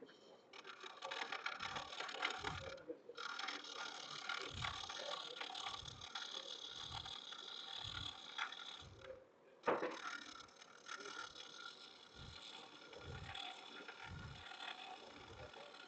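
Hunter hollowing tool's carbide cup cutter scraping the inside of a spinning wooden vase on a lathe: a steady cut that breaks off briefly twice, with a sharp click about ten seconds in and a low thump about once a second.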